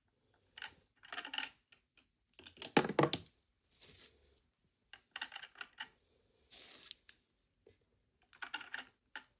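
Small plastic miniature toys and a toy fridge being handled: clusters of light clicks and rattles as pieces are moved and set in place, the loudest about three seconds in.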